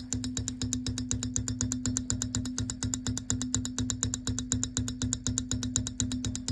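Rear wheel of a Kugoo Kirin V3 Pro electric bike knocking while it turns: a fast, even clicking of about ten knocks a second over a steady motor hum. The knock is the sign of a fault in the rear wheel or its hub motor.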